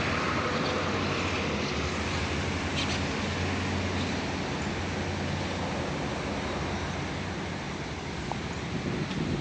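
Outdoor street ambience of road traffic: a steady hiss of passing vehicles over a low engine rumble, a little brighter at first and easing off slowly.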